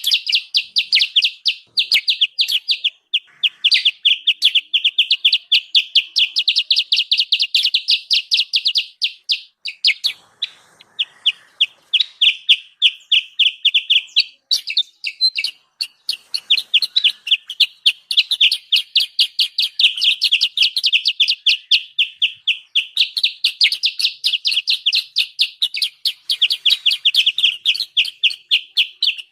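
Kutilang sutra, a bulbul, giving its noisy scolding chatter as a lure call for wild birds: a fast run of short sharp notes, several a second, broken by short pauses about ten and fifteen seconds in.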